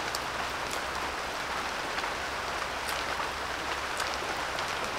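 Light rain falling steadily: an even hiss with scattered drop ticks.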